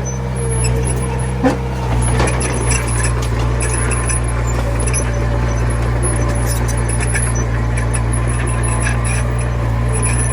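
Komatsu mini bulldozer's diesel engine running steadily, with a sharp knock and a brief squeal about a second and a half in, and some lighter clanks.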